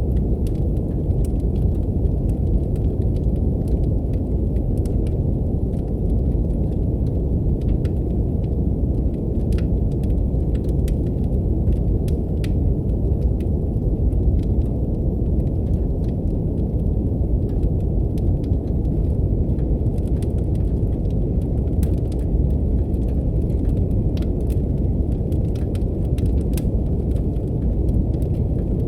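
Steady, deep brown noise with the sparse crackles and pops of a wood fire in a fireplace scattered over it.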